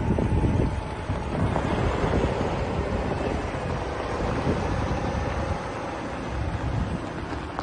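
Wind buffeting the microphone: a gusty low rumble whose loudness rises and falls, with a faint steady hum underneath.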